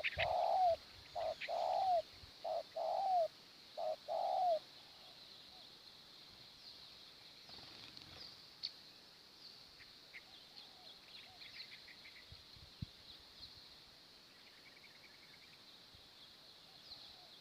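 Spotted dove cooing: four phrases in the first four and a half seconds, each a short note followed by a longer arched coo. Faint high chirps of small birds follow.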